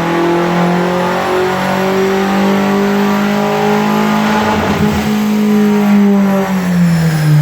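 2007 Opel Astra 2.0 turbo Ecotec four-cylinder pulling under full load on a chassis dynamometer. The engine note climbs slowly toward the top of the rev range, then drops away near the end as the run finishes, with a faint high whine over it.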